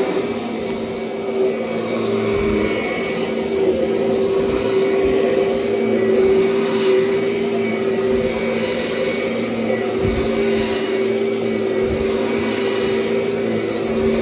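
Kirby upright vacuum cleaner with its power drive running steadily on plush carpet, a constant motor whine with a few brief low bumps as it is pushed back and forth.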